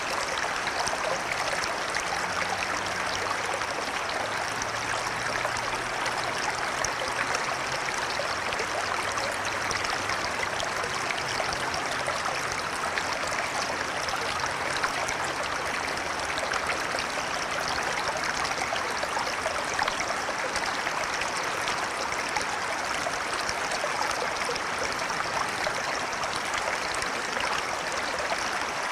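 River water flowing steadily, a continuous rushing and trickling with no breaks.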